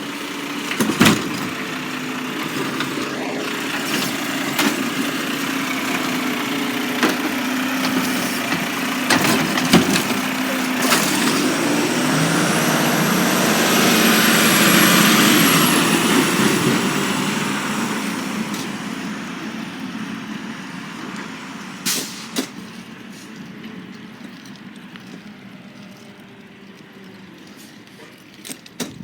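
Garbage truck running, growing louder to a peak about halfway through and then fading away, with a thin high whine near the loudest point and a few sharp knocks.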